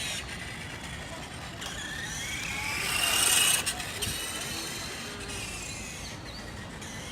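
Whine of the 1:5-scale RC Ducati motorcycle's small 380 electric motor, freshly repaired. It rises in pitch and loudness to a peak about three seconds in, then drops back to a lower, steadier whine.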